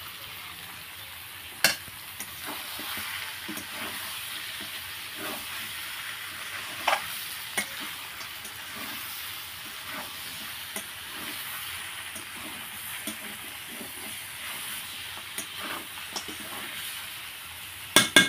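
Chicken curry with its masala and freshly added green chillies sizzling as it fries in oil in a pan, the masala cooked down until the oil separates. A few sharp clinks of a spatula against the pan, one about two seconds in, one near seven seconds, and a quick cluster near the end.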